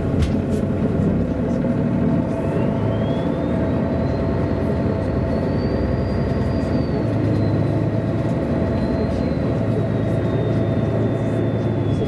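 MAN A23 articulated city bus under way, heard from inside: steady diesel engine and road rumble, with a thin high whine that rises in pitch, holds, and falls away again near the end.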